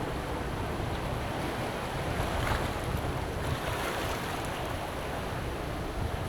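Sea waves washing onto a beach in strong wind, with gusts buffeting the microphone in a low rumble. The surf swells a couple of times mid-way.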